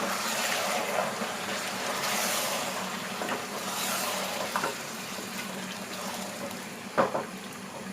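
Wet stirring and sizzling in a cooking pot as chicken, potatoes, tomatoes and yogurt are mixed together, slowly getting quieter, with a few knocks against the pot, the clearest near the end.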